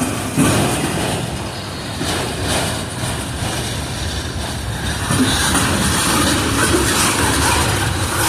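Freight cars of a mixed manifest train rolling past: a steady rumble of steel wheels on rail with occasional clacks, getting louder about five seconds in.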